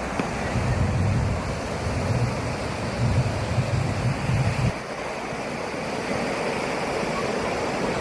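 Sea waves surging and washing against the shore in a steady rush. Wind buffets the microphone with a gusty low rumble that stops about five seconds in.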